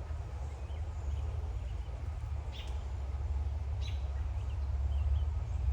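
Steady low rumble of machinery running, slowly growing louder, with short high bird calls breaking through twice.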